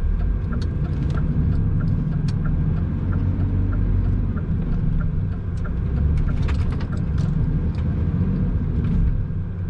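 Semi-truck's diesel engine rumbling steadily from inside the cab, with the turn indicator ticking about twice a second and a few rattles.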